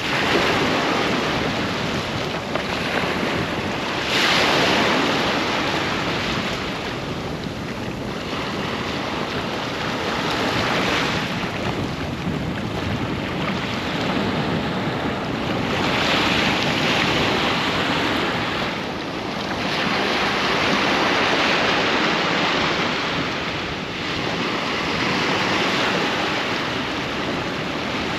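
Sea waves breaking and washing up on the beach in continuous surf. It swells louder about every five seconds as each wave breaks.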